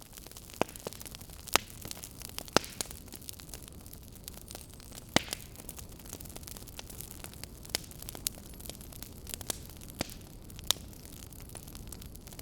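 Wood fire crackling in a fireplace: irregular sharp pops and snaps over a steady low rumble, a handful of them much louder than the rest.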